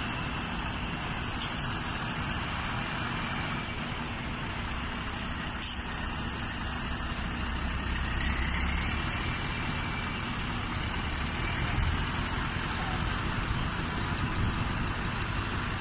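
Heavy Scania truck running steadily, low engine rumble under road noise, with a sharp click and a brief hiss about five and a half seconds in and a fainter hiss a few seconds later.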